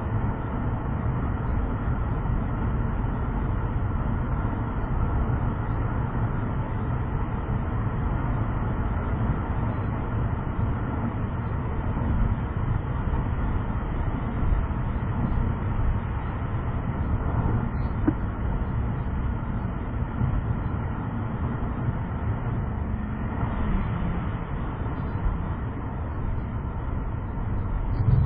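Steady low rumble of a moving vehicle's road and engine noise, picked up by a dashcam microphone, with no distinct events.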